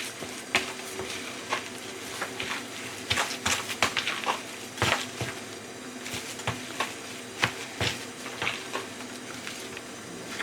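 Irregular light clicks, taps and knocks of kitchen items being handled, a dozen or more scattered sharp strikes over a low steady background.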